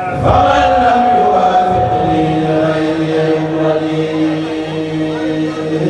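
A kourel, a Mouride group chanting Arabic religious verses (khassaid), singing together in long held notes, with a new phrase starting just after the beginning.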